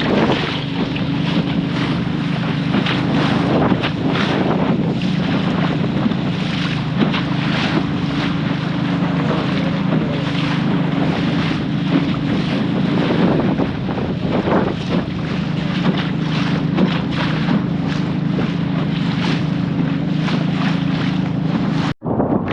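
Small boat's engine running steadily under way in strong wind, with heavy gusts of wind buffeting the microphone and water splashing. The sound drops out abruptly for a moment near the end.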